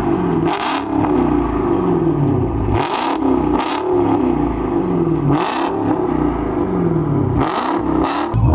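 A car engine revved over and over, its pitch climbing and falling about once a second. Several sharp cracks are mixed in.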